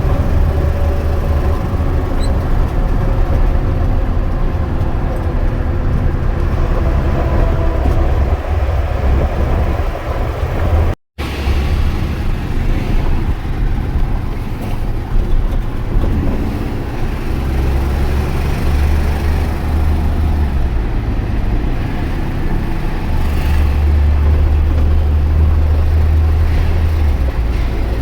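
Peterbilt semi truck's diesel engine running with road noise while driving. The sound cuts out for an instant about eleven seconds in.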